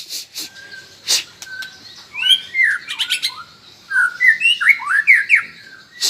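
Young murai (white-rumped shama) birds calling: short sweeping chirps and squawks, in a burst about two seconds in and a longer run from about four seconds on, with a few sharp clicks in between.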